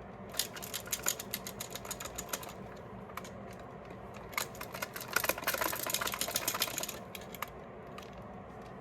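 Wireless headphones being handled: rapid runs of small, sharp plastic clicks and taps in two bursts, the second starting about four seconds in and denser.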